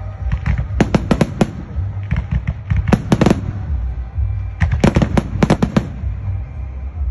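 Fireworks going off in quick clusters of sharp bangs, three bursts of several reports each, over a steady low rumble.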